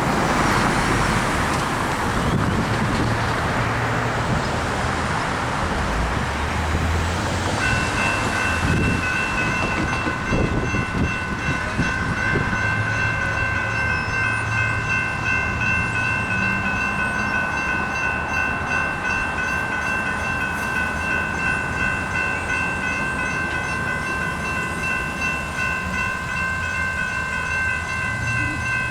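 Road traffic passing, then about seven and a half seconds in the grade crossing's electronic warning bells (General Signals) start ringing: a rapid, steady dinging of several high tones that sounds on without a break. The crossing has activated to warn of an approaching train.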